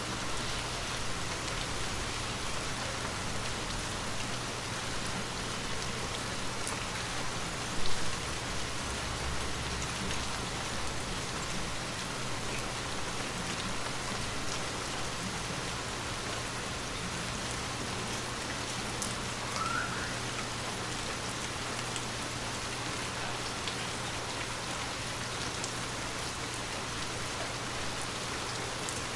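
Steady rain falling on a window, an even hiss of drops. About eight seconds in there is one brief low thump.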